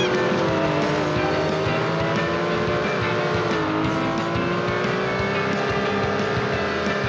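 Racing car engine held at high revs, a steady pitched engine note that falls slightly at the start and then wavers slowly up and down.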